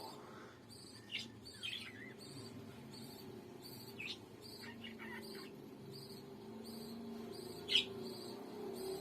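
Pet parrot giving short, sharp chirping calls, about five of them spread apart, the loudest near the end.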